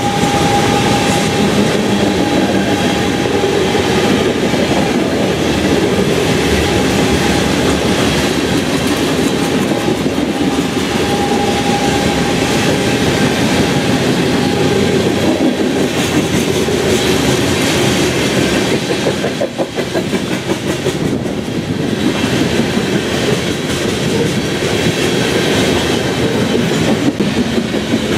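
Covered hopper cars of a Canadian Pacific potash freight train rolling past close by: a steady rumble of wheels on rail with clickety-clack over the joints. A thin, steady ringing note comes and goes over the first half.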